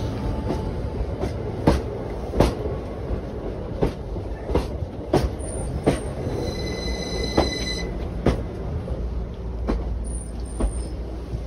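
Northern electric passenger train pulling out of the station: a steady low rumble with repeated sharp clicks of the wheels over rail joints, and a high wheel squeal lasting about a second and a half, about six seconds in.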